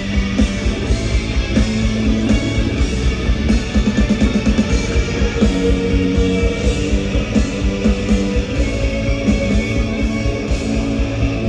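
Live rock band playing an instrumental passage between sung lines, full and loud, with a steady drum beat.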